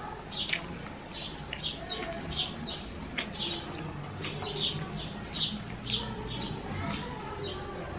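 Small birds chirping repeatedly, a few short, high, downward-sliding chirps a second, over a steady low hum.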